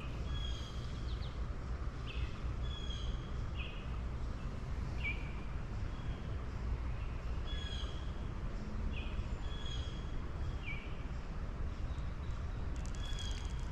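Songbirds chirping, short high calls repeated every second or two with some falling in pitch, over a steady low rumble of outdoor background noise.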